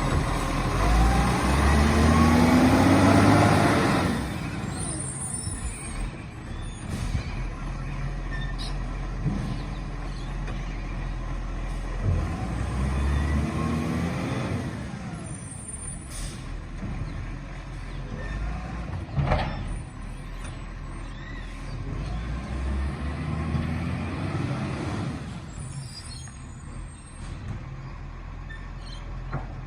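Garbage truck's diesel engine revving up three times, about ten seconds apart, with short air brake hisses after each rev and a sharp click about nineteen seconds in.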